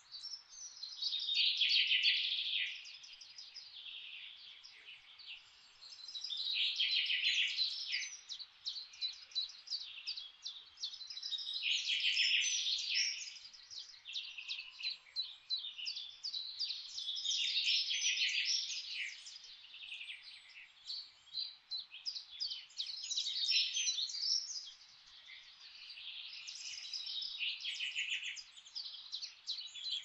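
Songbirds singing, with loud phrases of quick chirping notes coming every five or six seconds and quieter calls in between, over a faint steady hiss of forest ambience.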